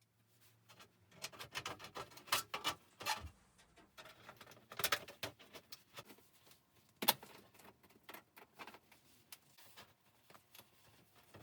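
A run of irregular clicks, taps and knocks from handling, loudest a few seconds in and around seven seconds, then fewer and fainter.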